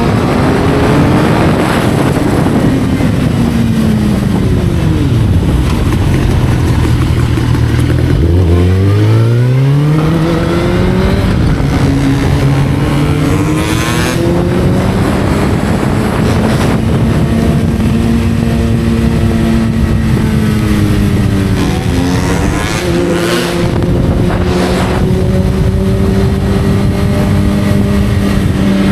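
Motorcycle engine on the move: the revs fall over the first few seconds as it slows, climb again from about eight seconds in as it accelerates, then hold nearly steady at cruising speed, over a constant rush of road and wind noise.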